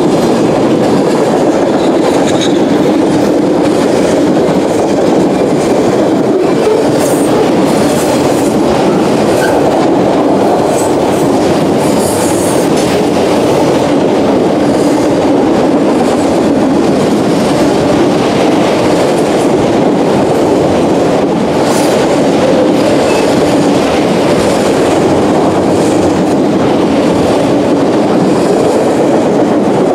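Freight cars (boxcars, then autoracks) rolling past at close range: a steady loud rumble and clatter of steel wheels on rail, with a few brief higher rattles here and there.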